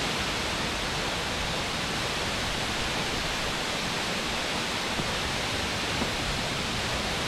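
Aber Falls, a waterfall about 120 feet high, crashing steadily into a rocky pool: an even, constant roar of falling water.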